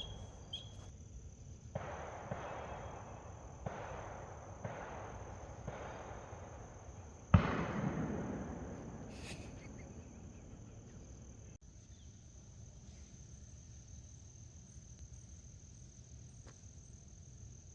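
A single distant gunshot about seven seconds in: a sharp crack and then a long rolling echo that fades over a few seconds. A steady high insect trill runs throughout, and before the shot there are a few second-long stretches of rustling.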